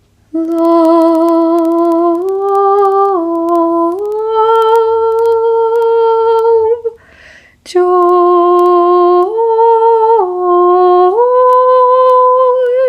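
A woman's voice singing slow, long-held notes, each word drawn out and stepping up and down between a few pitches, with a short breath about seven seconds in.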